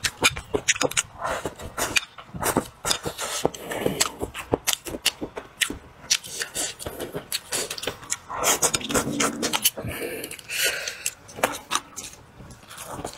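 Close-miked chewing and lip-smacking: wet mouth clicks and smacks coming in quick irregular runs as a mouthful of braised fish, noodles and peppers is eaten.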